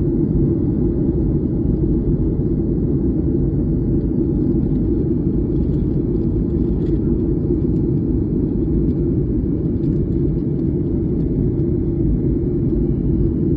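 Steady low rumble of a vehicle in motion, even and unbroken.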